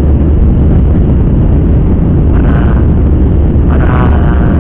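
Steady, loud low rumble of an airliner heard from inside the passenger cabin. Faint voices come through briefly about halfway through and again near the end.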